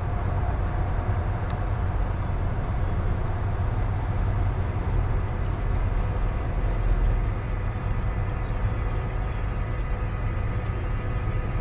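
CSX freight train's cars rolling past, a steady, continuous rumble of wheels on rail.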